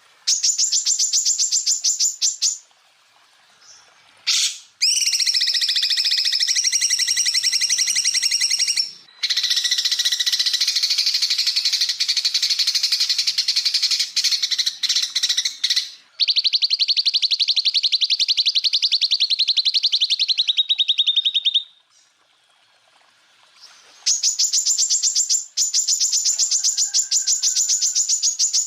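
Cucak ijo (greater green leafbird) singing fast, rattling 'tembakan' phrases: long runs of rapid repeated high notes, several seconds each, broken by short pauses.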